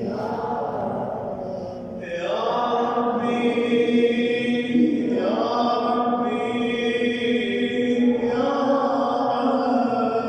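A voice chanting a supplication in long, drawn-out melodic notes, the pitch rising into each new held phrase, about two seconds in and again about five seconds in.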